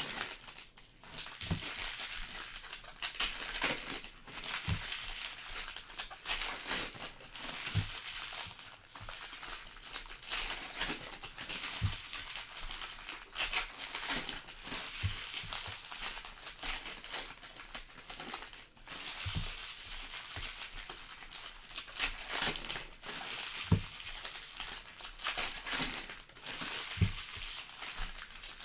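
Plastic wrapping of trading card packs crinkling and tearing as the packs are opened, with a soft knock every few seconds.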